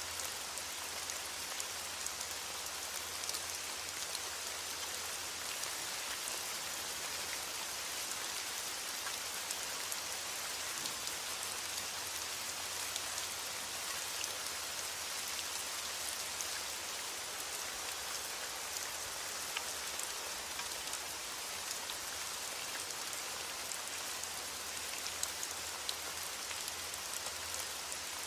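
Heavy rain hitting a window, a steady even hiss with scattered sharp ticks of drops and crackles throughout.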